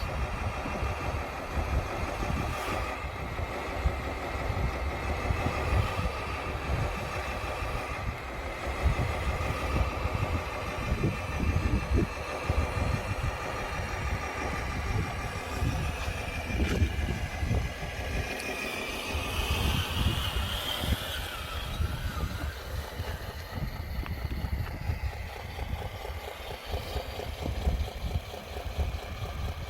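Radio-controlled dump truck running steadily with an engine-like rumble. A higher whine swells and glides briefly about two-thirds of the way through.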